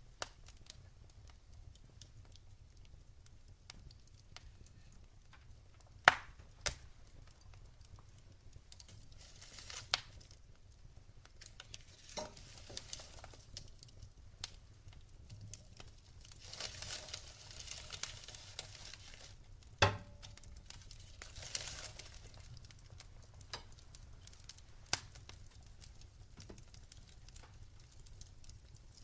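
Wood fire burning in a fireplace: a low steady hiss with scattered sharp crackles and pops, the loudest about 6, 10 and 20 seconds in, and a few swells of higher hissing as the logs flare.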